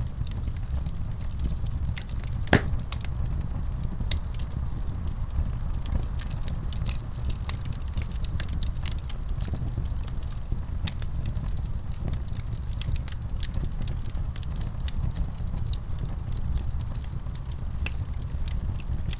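Wood fire crackling: many small sharp pops and snaps over a steady low rumble of flames, with one louder pop about two and a half seconds in.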